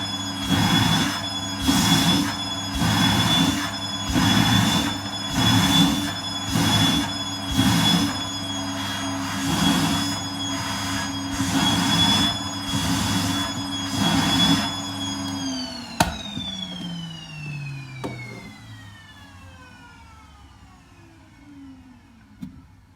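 Vacuum cleaner running, its suction sound swelling and easing about once a second. About 16 seconds in it is switched off with a click and the motor winds down, its whine falling steadily in pitch and fading.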